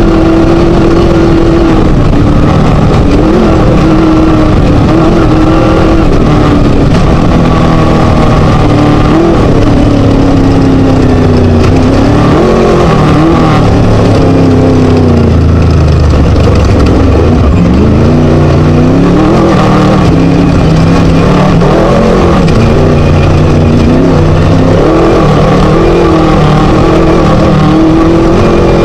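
Class 1 desert race buggy's Scat V4 engine running hard and very loud, its pitch rising and falling with the throttle over rough ground. About halfway through the revs drop low for a couple of seconds, then climb back up.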